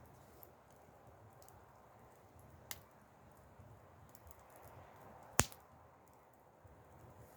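Wood fire burning quietly with faint scattered crackles and two sharp pops, the louder one a little past halfway.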